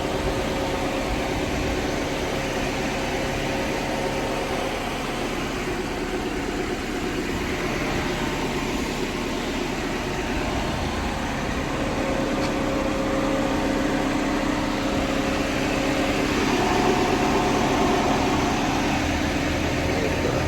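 Car engine idling steadily after a start following four days unused, with no words over it. Its hum grows a little stronger in the second half, where a steady higher tone joins it.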